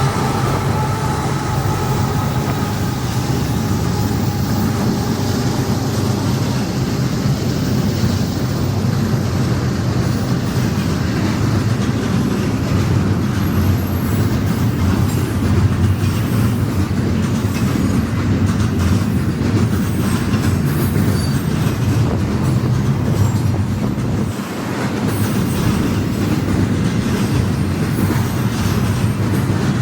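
Intermodal freight train rolling past at close range: a steady loud rumble of wheels on the rails with dense clatter from the passing cars, dipping briefly near the end.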